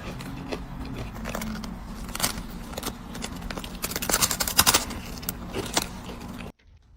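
Rapid metallic jingling and clicking, busiest about four to five seconds in, over a steady low hum. It cuts off abruptly about six and a half seconds in.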